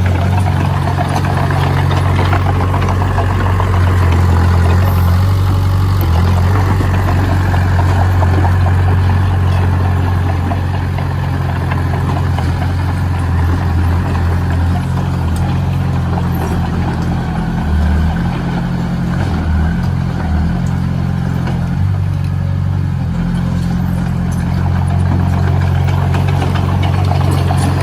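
Diesel engine of a heavy construction machine running steadily with a low, even hum that shifts a little in strength.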